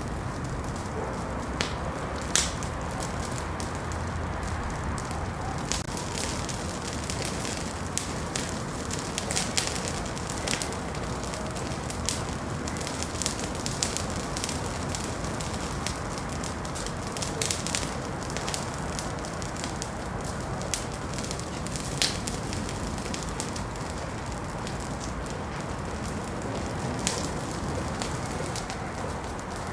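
Wood fire burning in a fireplace, steady hiss with frequent sharp crackles and pops at irregular intervals.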